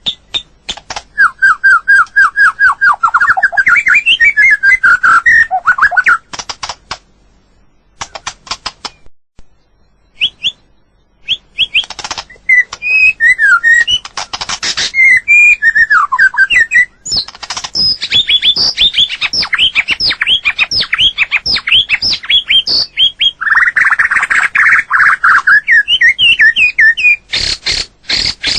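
White-rumped shama singing: varied phrases of clear whistles, sweeping notes and fast trills, mixed with many sharp, rapid clicks. The song breaks off for a few seconds about a quarter of the way in, then resumes.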